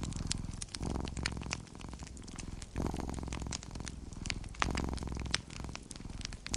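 A domestic cat purring close up, a low rumble that swells and eases in cycles about every two seconds, with a wood fire crackling in frequent sharp snaps over it.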